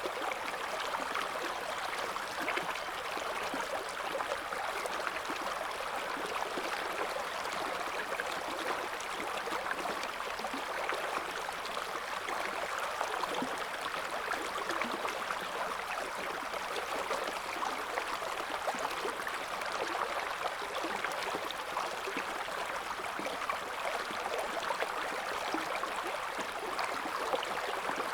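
A small river's current running over stones: a steady babbling and splashing of water, with no break or change.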